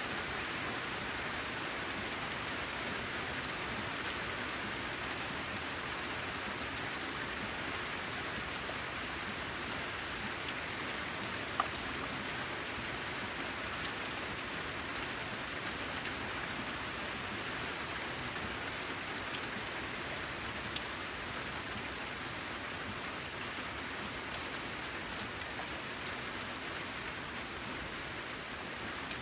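Steady rain falling on a corrugated zinc roof: an even hiss of rain with scattered sharp drop ticks, one louder tick about halfway through.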